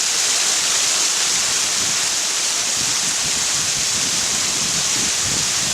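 Senjō-no-taki waterfall, many thin streams of water falling over a rock face, giving a steady bright hiss with some low rumbling from about halfway through.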